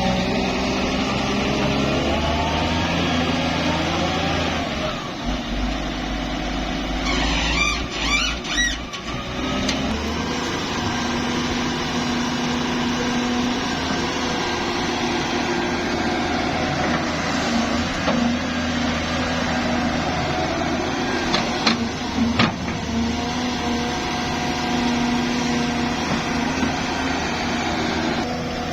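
Diesel engine of heavy construction machinery running under work, its pitch rising and falling. A burst of squeaking and clatter comes about eight seconds in, and a few sharp knocks about twenty-two seconds in.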